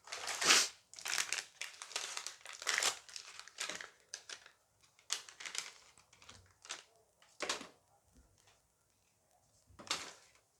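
Crinkling of a plastic foil booster pack as it is handled and opened, in irregular bursts of rustling.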